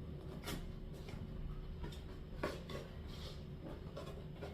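A measuring cup scooping and pouring baking soda into a container: a few light clinks and knocks with soft scraping.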